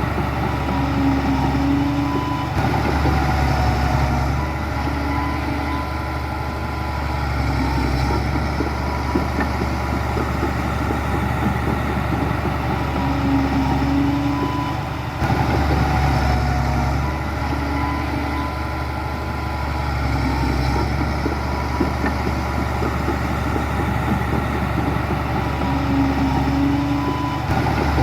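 Heavy diesel construction machinery engines running steadily. The loudness swells and eases every few seconds, with a sudden jump about halfway through.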